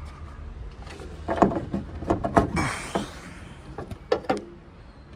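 Several sharp knocks and clicks, with a short scraping rush about halfway through, as the vehicle's doors or panels are handled.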